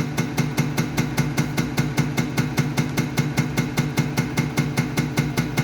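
Bosch 0414799005 diesel unit pump running on an injection test bench during a measurement run, with a sharp click on every pumping stroke, about five a second, over the steady hum of the bench drive.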